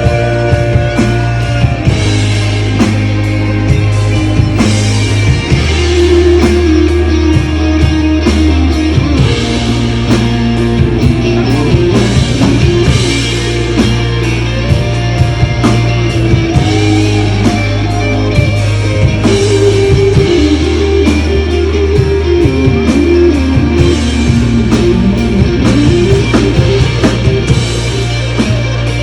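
A rock band playing live: electric guitar carries a melody over a bass line that changes note every few seconds, with steady drum-kit beats.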